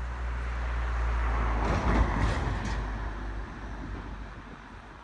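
A vehicle's low rumble, then a rushing noise that swells about two seconds in and fades away, like a vehicle passing and moving off.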